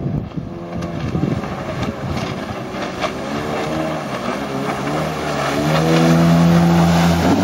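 Jet ski engine running over the water, its pitch climbing as it speeds up about halfway through, holding high and loud, then dropping at the very end.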